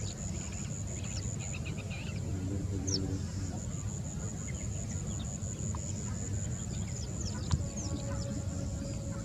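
Wetland birds calling: short, high, falling chirps scattered throughout, a quick run of notes near the start, and a lower repeated call about two to three seconds in, over a steady low rumble and a constant thin high whine.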